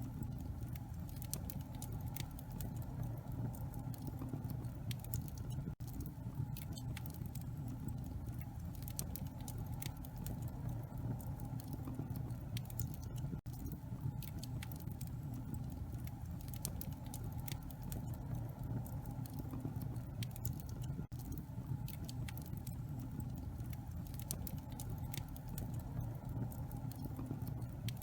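Wood fire burning in a fireplace, crackling with many small irregular pops over a steady low rumble.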